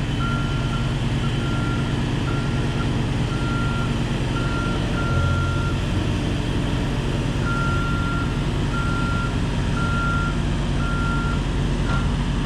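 Man lift's motion alarm beeping about once a second over its engine running. The beeping pauses for about a second and a half midway, then starts again.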